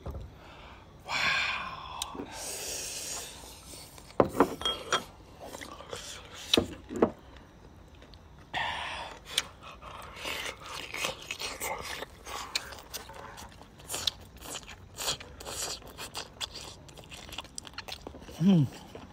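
Close-up eating of squid tentacles: wet chewing and biting with many sharp mouth clicks and smacks, and two longer breathy rushes of noise. Near the end comes a short voiced sound that falls in pitch.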